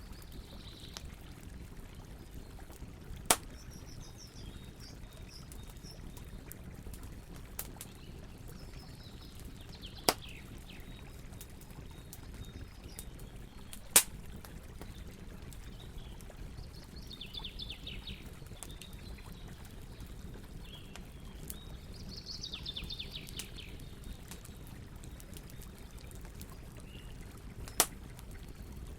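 Campfire burning with a steady low rush, four sharp pops from the burning wood, and several short, high chirping calls of birds.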